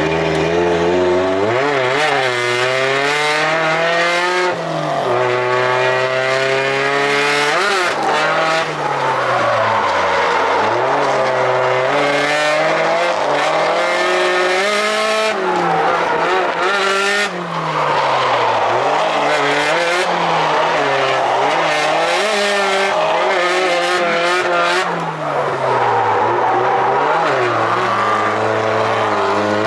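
Drift car engine revving hard, its pitch rising and falling again and again, with tyres squealing as the car slides.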